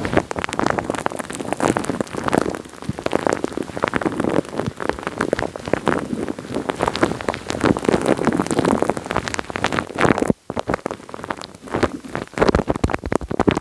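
Dense, continuous wet, sticky crackling and clicking right on a microphone, like a close-up patter of rain, with a brief break about ten seconds in.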